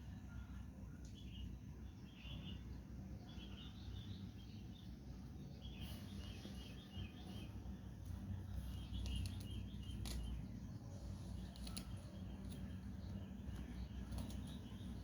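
Small birds chirping in short twittering bursts every second or two, over a steady low rumble, with a few sharp clicks.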